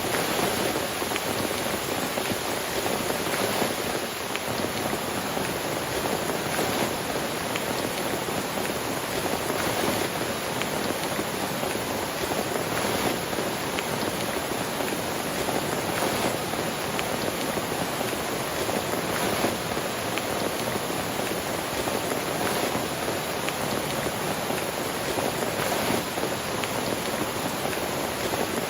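Steady heavy rain falling on a tent, a dense even hiss with occasional louder drop hits.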